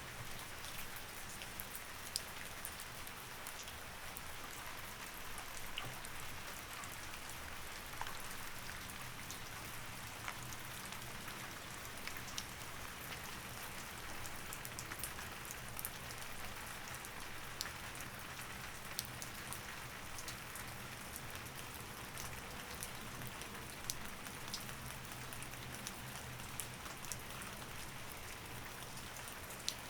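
Steady rain, with many individual drops ticking sharply on a hard surface, over a faint low hum.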